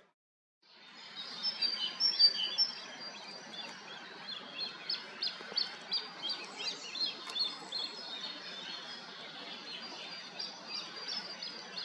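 Small birds chirping over a steady outdoor background, starting about a second in. The short high chirps come in a quick cluster at first, then repeat two or three times a second.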